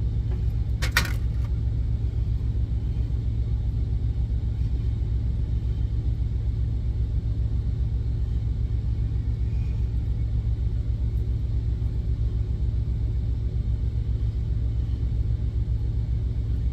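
Semi truck's diesel engine idling: a steady low rumble with a fine even pulse, and a single sharp click about a second in.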